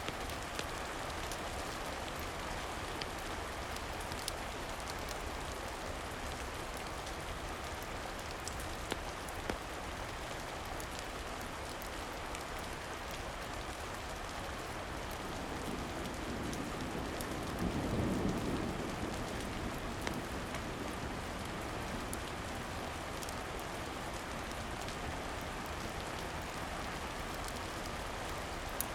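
Steady rain falling on a surface, with a few sharp pops scattered through it. About halfway through, a low rumble swells and fades over several seconds.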